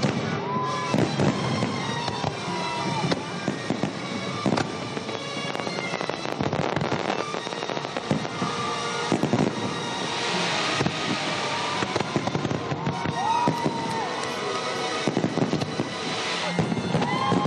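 Fireworks salute: aerial shells bursting one after another with crackling bangs, and a few rising-and-falling whistles now and then.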